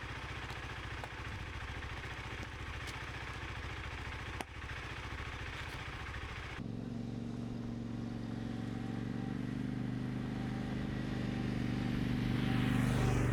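Adventure motorcycle riding along, its engine running steadily under a rush of wind. About six and a half seconds in the sound changes abruptly to a stronger, fuller engine note that grows louder toward the end.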